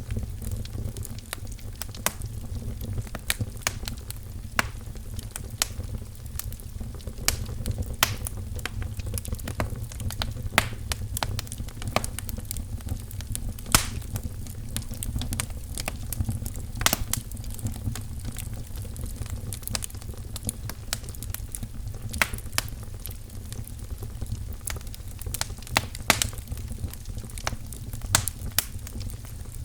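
Wood fire in a fireplace crackling, with irregular sharp pops and snaps scattered throughout over a steady low rumble.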